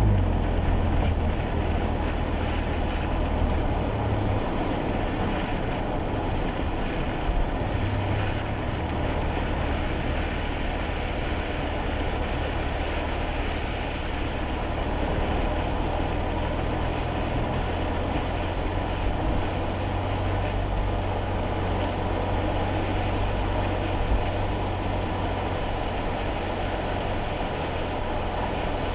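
Road noise inside a kei car's cabin on a rainy drive: a steady low rumble from engine and road with an even hiss of tyres on wet tarmac and rain.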